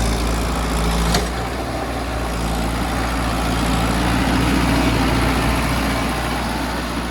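Mahindra Arjun 555 DI tractor's four-cylinder diesel engine running steadily, with a sharp click about a second in and the sound easing off near the end.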